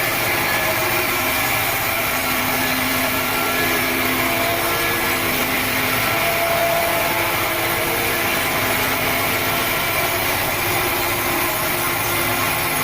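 Sawmill saw running steadily while cutting through a teak log: a dense, unbroken rush of noise with several held tones.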